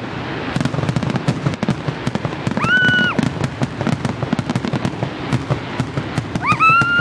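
Fireworks crackling densely, a fast run of pops typical of glitter or crackle shells. Two high whistling tones rise, hold and fall, one about three seconds in and a louder one near the end.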